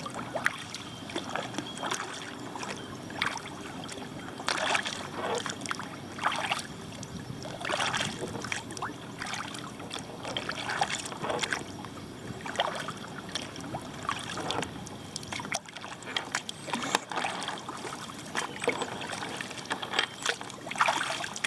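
Kayak paddle strokes dipping into the water, each a short splash with dripping, about every second and a half.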